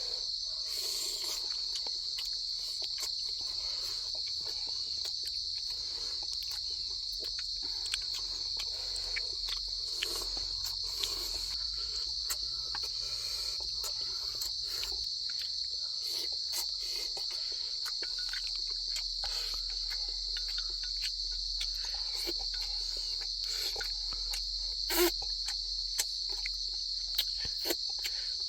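Rainforest insect chorus: a steady, unbroken high-pitched drone of crickets, with scattered small clicks and ticks and one sharper tick near the end.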